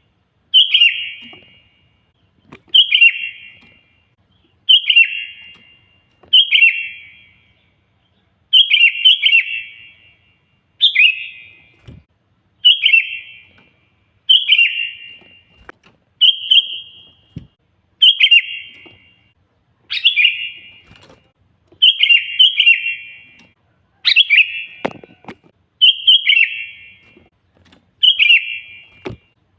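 Sooty-headed bulbul (kutilang) in full song: a short, bright warbled phrase repeated about every two seconds, loud and insistent, the vigorous 'gacor' song used to call out rival bulbuls.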